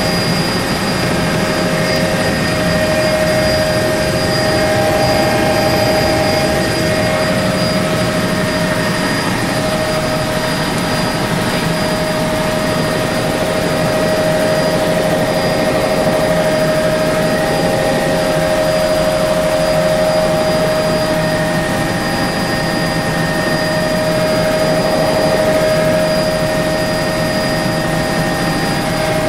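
Helicopter turbine and rotors running steadily in flight, heard from inside the cabin as a constant loud drone with a steady high whine.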